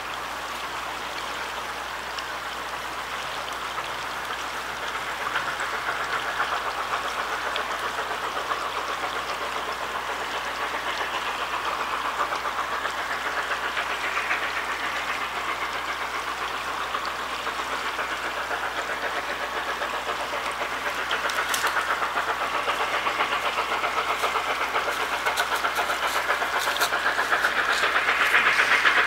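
A train approaching in the distance along the line: a steady running sound that slowly grows louder, loudest near the end, with a few sharp clicks in the last few seconds.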